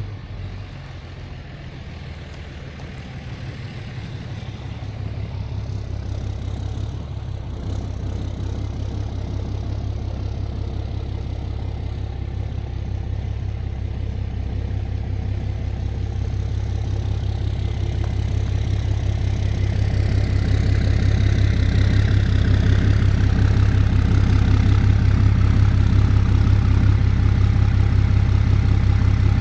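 Vehicle engine running with a steady low hum that grows gradually louder, joined by a rising hiss about two-thirds of the way through.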